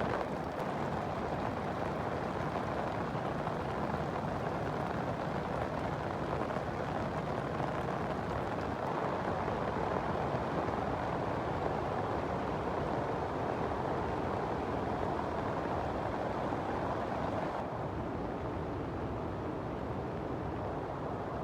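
Heavy rain falling steadily, a dense even hiss with a low rumble under it; it turns slightly duller for the last few seconds.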